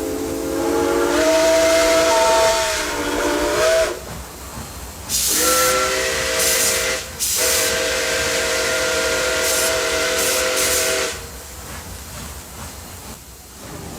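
Multi-chime steam locomotive whistle sounding a chord in two long blasts, the second briefly broken, over steam hiss.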